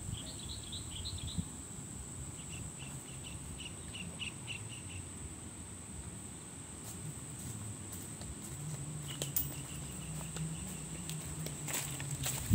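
Rural outdoor ambience: a small bird chirping in quick series during the first five seconds, over a steady high-pitched insect drone. A few sharp clicks near the end.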